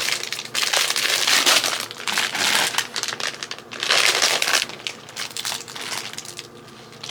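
Plastic packaging crinkling and rustling as hair bundles are handled and bagged, busy for the first four seconds or so, then quieter.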